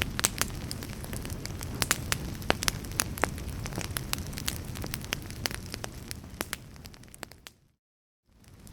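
Crackling fire: a steady low rumble with frequent sharp pops and crackles. It fades out near the end, breaks off into a moment of silence, then starts again.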